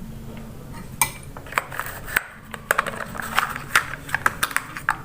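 Cutlery clinking against a plate while eating: a run of irregular sharp clinks that starts about a second in.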